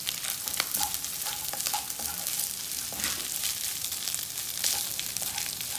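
Fried rice and scrambled egg sizzling in a hot pan while a spatula stirs and mixes them, with frequent short scrapes and taps of the spatula against the pan.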